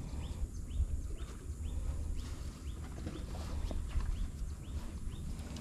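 A small bird repeating a short rising-and-falling call, about two a second, over a low rumble.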